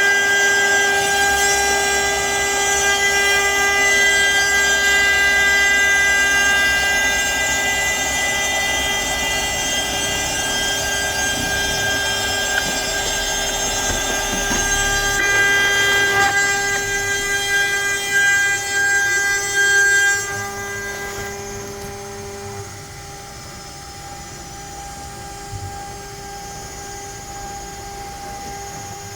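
CNC router spindle running at high speed while the bit cuts pine, a steady whine of several held tones. About two-thirds of the way through it drops to a quieter, thinner whine.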